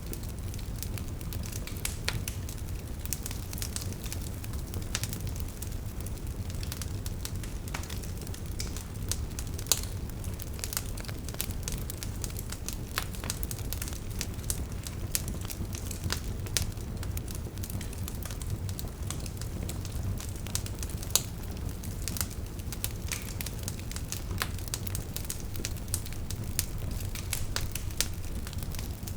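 Wood fire burning with a steady low rumble and frequent sharp crackles and pops from the logs.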